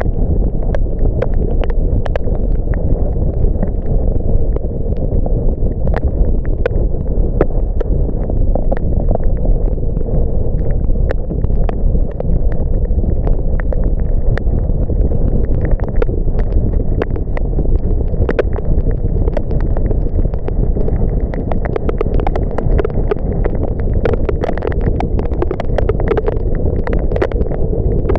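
Car driving in rain: a steady low road and engine rumble with many irregular sharp ticks of raindrops striking the car.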